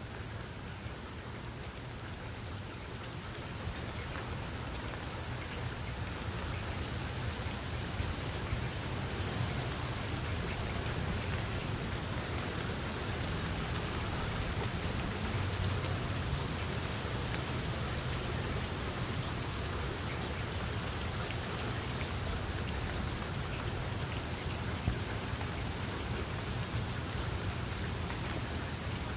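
Steady rain falling, with scattered individual drops ticking through it and a low rumble underneath; it grows a little louder over the first few seconds, then holds even.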